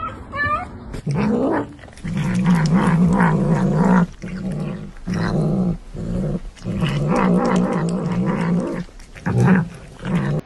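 A pet growling in a run of long, wavering growls with short breaks between them.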